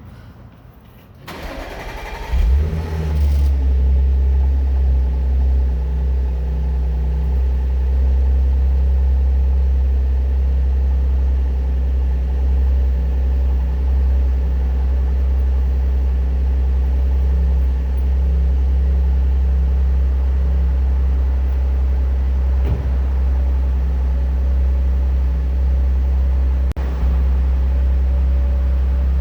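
2015 Audi S5's supercharged 3.0-litre V6 cold-started on its stock exhaust: the starter cranks briefly, the engine catches about two seconds in with a loud flare of revs, then settles into a steady cold idle.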